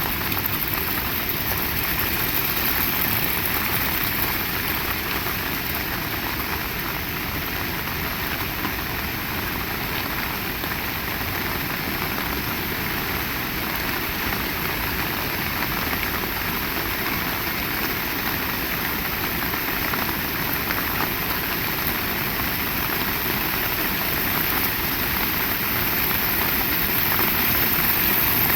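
Heavy rain pouring steadily with strong wind, a dense hiss over a low rumble, growing a little louder near the end.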